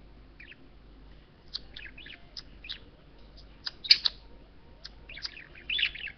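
Male pet budgerigar chirping and chattering: a quick string of short high chirps and warbles, loudest about four seconds in.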